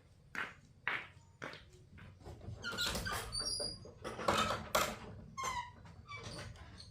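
A dog making short high-pitched calls, after a few light knocks near the start.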